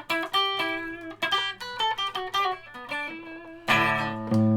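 Electric guitar, a custom multi-pickup Stratocaster with two pickups wired in series and out of phase, playing a short riff of quick picked notes. Near the end comes a low chord struck and left ringing.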